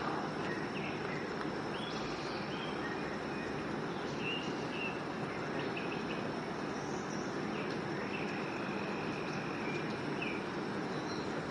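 Steady outdoor ambience of insects droning, with a few faint short chirps.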